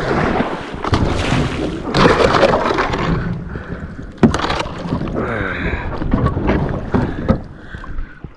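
Water splashing and sloshing around a kayak, with several sharp knocks and wind buffeting the microphone.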